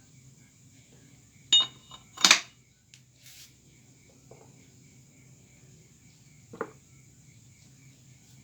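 Metal parts clinking as they are handled: a short ringing clink about one and a half seconds in, a louder clank just after, and a smaller knock near the end.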